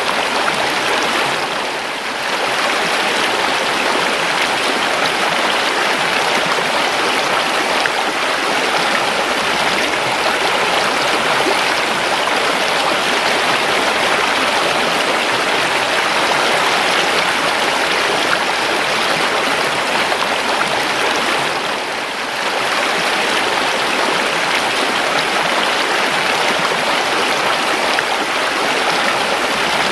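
Steady flow of river water, an even rush and babble that dips briefly twice.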